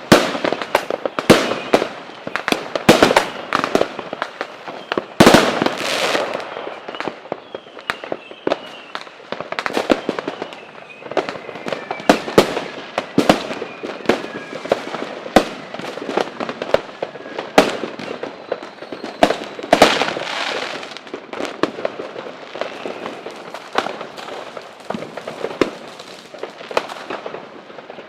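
Fireworks display: a dense, continuous string of sharp bangs and cracks from bursting shells, the loudest burst about five seconds in.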